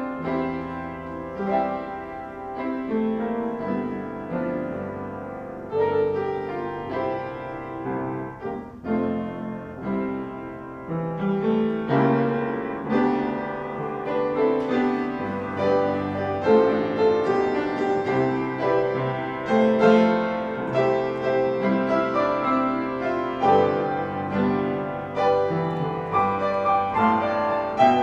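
Piano music in a slow, classical style, growing fuller and louder about twelve seconds in.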